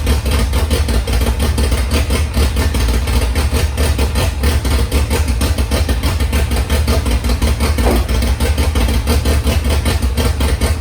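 Volvo B20 four-cylinder engine on its first start attempt, hotwired and turning over loudly with a rapid, even beat.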